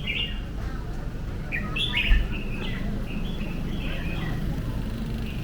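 Small birds chirping in quick runs of short, high calls over the steady low hum of city traffic, with a brief low thump about two seconds in.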